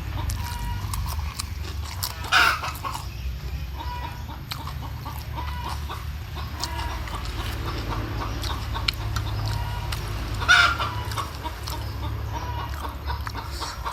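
Domestic chickens clucking, with two louder squawking calls, one about two and a half seconds in and one about ten and a half seconds in. Small crunching clicks of someone eating crackers run through it.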